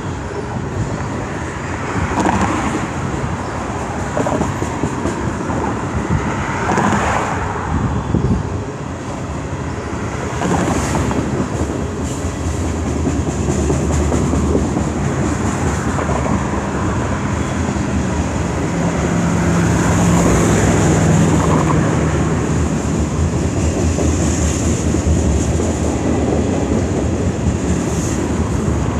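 CN freight train's tank cars and covered hoppers rolling past on steel rails: a steady rumble with the clack of wheels over the rail joints, growing louder in the second half.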